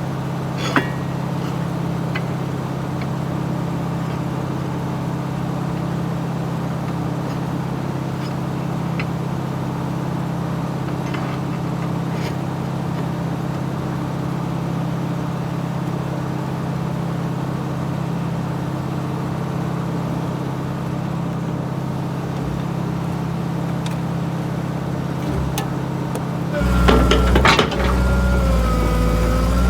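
Excavator's diesel engine running steadily, with scattered light metallic clinks. Near the end it gets louder and deeper, with a wavering whine, as the machine is put under hydraulic load.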